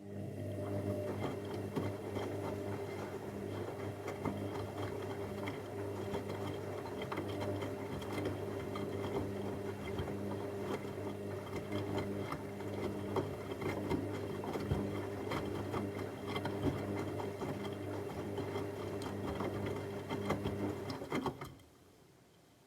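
Techwood WB 91042I washing machine running: a steady motor hum with a busy patter of small clicks, which starts abruptly and cuts off about 21 seconds later.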